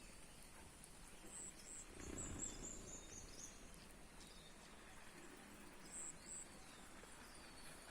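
Faint high-pitched chirps of small birds, munias (burung pipit): short paired notes, then a quick run of notes stepping downward, and another pair near the end. Underneath lies a steady high hiss, and a brief low rumble comes about two seconds in.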